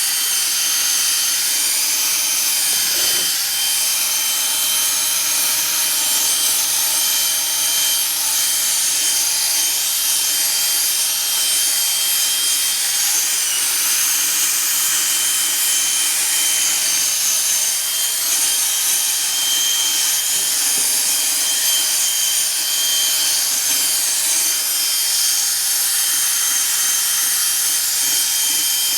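Drill spinning a buffing pad against a plastic headlight lens, working in polishing compound: a steady high motor whine with the pad rubbing on the lens.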